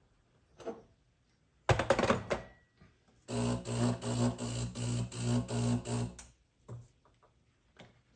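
De'Longhi Magnifica Start espresso machine starting up. After a click and a loud clunk from its internal mechanism, its pump hums in about nine short pulses, roughly three a second, and then two light clicks follow. Despite the pump running, no water comes out.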